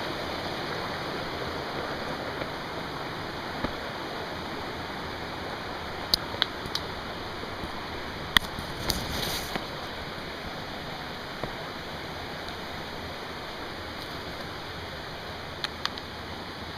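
Steady rush of flowing water, fading slightly toward the end. A few sharp clicks or snaps cut through it around the middle, and two more come near the end.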